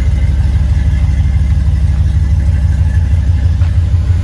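LS V8 swapped into a 1977 Chevy Suburban, idling steadily through headers with an even, low exhaust rumble.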